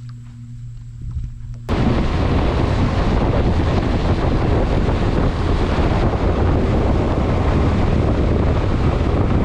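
Loud wind rushing over the microphone of a small boat under way, with a low rumble under it. It starts abruptly about two seconds in, after a short quieter stretch.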